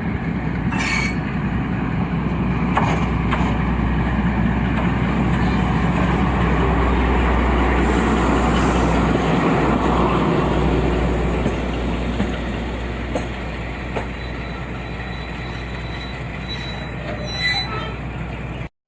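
BR Class 42 Warship diesel-hydraulic locomotive running past with its twin Maybach V12 diesels droning, the rumble of the train swelling to a peak a few seconds in and then easing off. A few sharp clicks of wheels over rail joints, and a faint thin squeal near the end.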